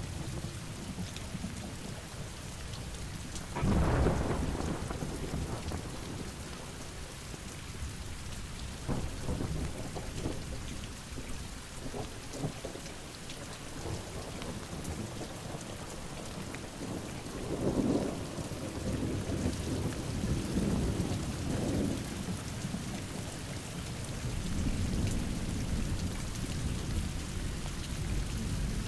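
Heavy rain pouring steadily onto surfaces, with rolls of thunder: a loud rumble about four seconds in and longer rumbling over several seconds about two-thirds of the way through.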